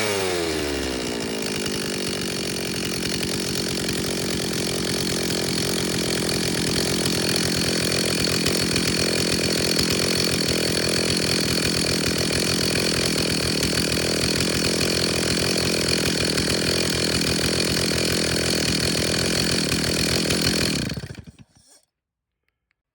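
Stihl 034 chainsaw's two-stroke engine dropping back from a rev to idle, idling steadily for about twenty seconds, then shut off abruptly near the end.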